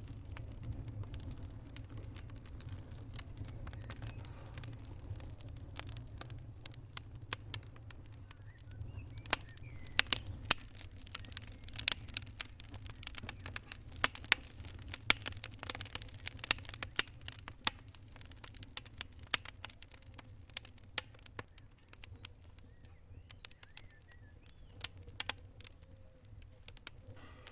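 Fire crackling: irregular sharp pops and snaps over a low steady rumble, coming thickest through the middle.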